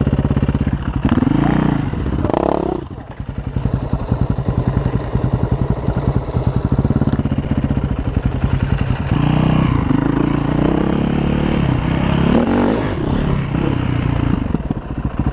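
Enduro dirt bike engine running hard under changing throttle, its revs rising and falling. It eases off briefly about three seconds in, then pulls strongly again from about nine seconds.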